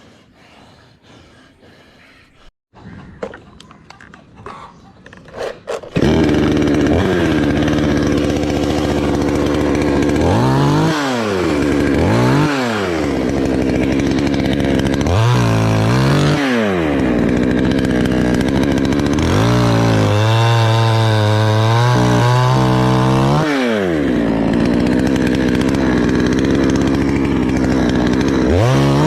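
A chainsaw's two-stroke engine starts abruptly about six seconds in, after a few faint knocks, and runs loud while cutting tree wood. Its pitch dips sharply and recovers several times under the load of the cut, and it holds high and steady for a few seconds in the middle.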